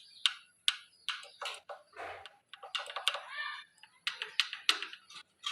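Light metal clicks and short scrapes, irregular and several a second, from hand tools and parts being worked on the valve rocker adjustment of a ZS1115 single-cylinder diesel's cylinder head.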